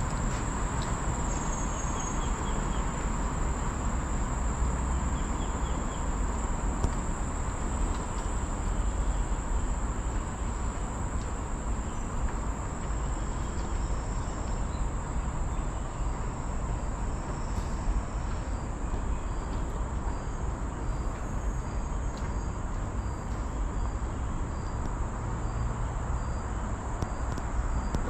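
Steady high-pitched drone of insects (crickets or cicadas) in tropical forest, over a steady low rumble. A faint run of short chirps, about two a second, joins in the second half.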